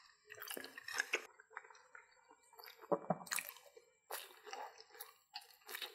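Close-up mouth sounds of biting into and chewing a battered corn dog: wet, squishy chewing that comes in several short bursts with brief pauses between.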